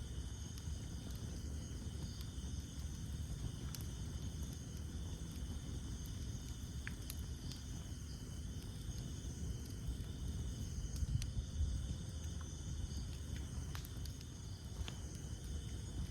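Wood fire crackling, with scattered sharp pops over a low, steady rumble. Behind it, a steady high chorus of night insects.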